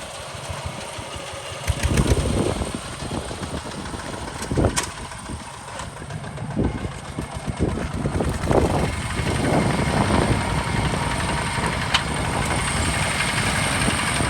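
Diesel engine of a Hinota HG Gold 155 DI tractor running. It gets louder about two seconds in, with irregular knocks through the rest.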